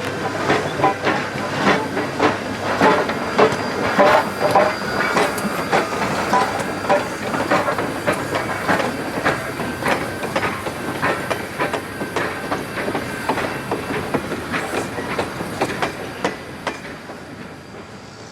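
A train rolling past, its wheels clicking over the rail joints in an uneven string of clicks over a steady rumble. It fades as the train moves away over the last few seconds.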